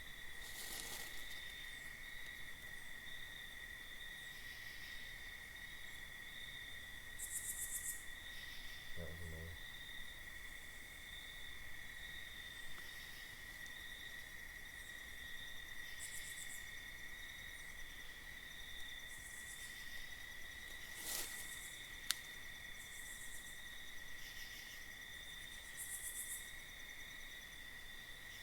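Crickets trilling in a steady, continuous high-pitched chorus, with short buzzy insect calls higher up every few seconds. A couple of brief noisy sounds and one sharp click break in, about a second in and a little past the two-thirds mark.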